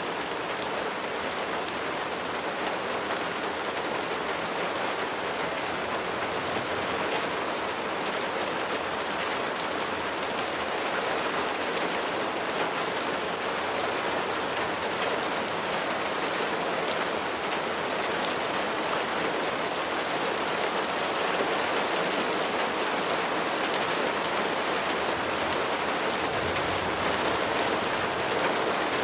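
Steady rain falling on a surface, a dense even patter with individual drops ticking through it.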